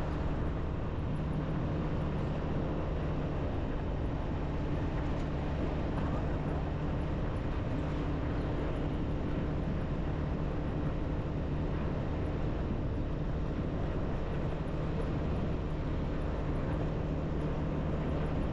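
Small motorbike engine running steadily while riding, with road and wind noise.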